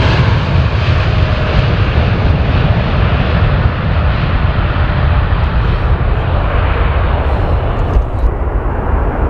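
Boeing 787-9 airliner's jet engines at takeoff power during a departure: a loud, steady deep rumble with a rushing hiss over it.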